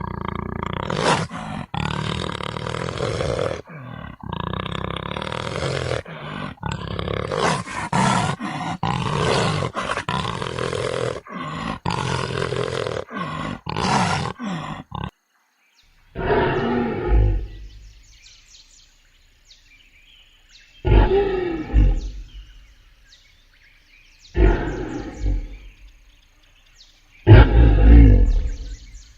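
Big cats roaring and growling: for the first half, dense overlapping roars and growls in quick abrupt cuts; then four separate loud roars, each a second or two long, spaced about four seconds apart with quiet between.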